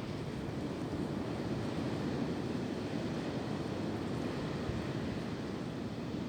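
Wind blowing steadily through tree branches, a continuous rushing noise with no gusts or breaks.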